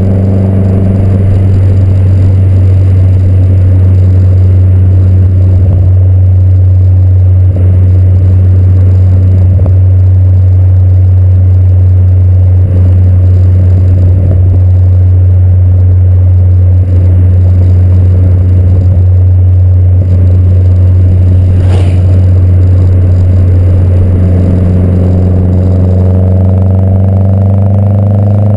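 Exhaust of a 2011 Mazdaspeed 3's turbocharged 2.3-litre four-cylinder, running through a catted downpipe and aftermarket axleback, giving a loud, steady low drone that holds one pitch throughout.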